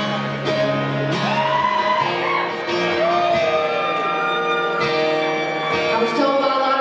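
Live country band playing a sustained instrumental passage, held chords with a few sliding high notes over them.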